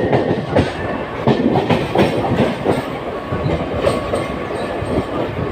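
Mumbai suburban EMU local train running, its wheels clattering over the rail joints in an irregular stream of clicks over a steady rush of running noise, heard on board the open non-AC coach.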